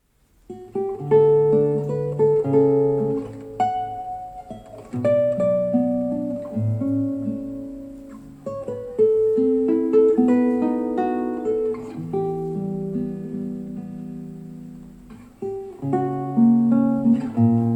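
Intimus Pebblee M+ custom loudspeaker with an AMT tweeter playing back a recorded song's acoustic guitar introduction, picked up by a room microphone. Plucked guitar notes begin about half a second in and run in phrases with no singing.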